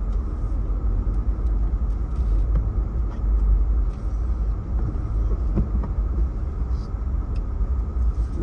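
A car driving, heard from inside the cabin: a steady low rumble of engine and tyre noise, with a few faint clicks.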